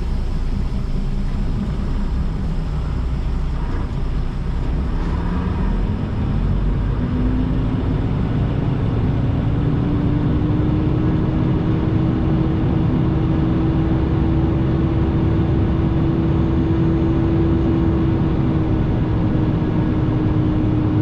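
Semi truck's diesel engine running steadily; a few seconds in its pitch climbs as the engine speeds up, then holds at that higher, steady note.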